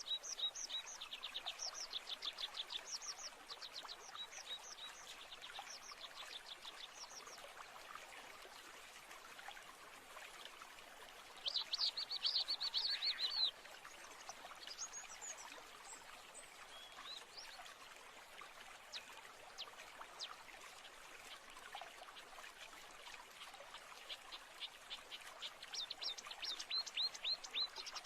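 Birds singing: repeated trills of quick down-slurred chirps, with one dense, louder burst of song about twelve seconds in and trills returning near the end, over a faint steady hiss of natural background.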